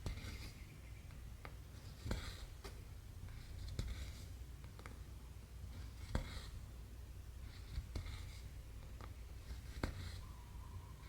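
Needle and cotton thread worked through cross stitch fabric. There is a soft rasp each time the thread is pulled through, about every one to two seconds, mixed with small sharp ticks of the needle piercing the cloth.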